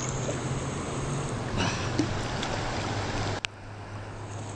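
Steady rushing water noise of a river around a wading angler, with a splash about one and a half seconds in. A sharp click comes near the end, after which the water noise is quieter.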